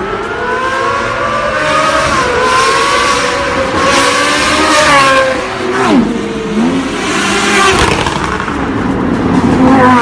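Car engine with a very loud exhaust, revving hard: the pitch climbs steadily for about five seconds, drops sharply about six seconds in, then climbs again near the end.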